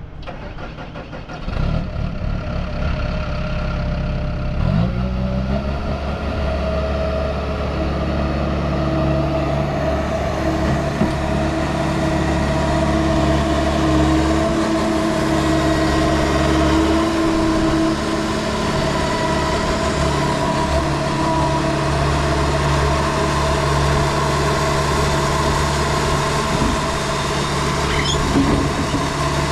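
Gehl V400 skid steer's diesel engine starting up about a second and a half in, rising in pitch a few seconds later, then running steadily.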